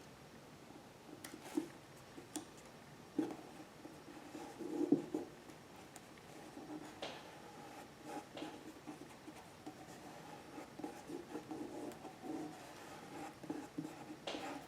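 Paper pieces being handled, laid down and rubbed flat on a work table: a steady scratchy rubbing broken by small taps and clicks.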